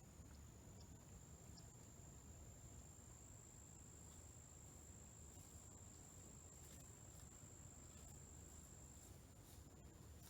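Faint insect song: one unbroken high-pitched trill held steady for several seconds, over a low background rumble.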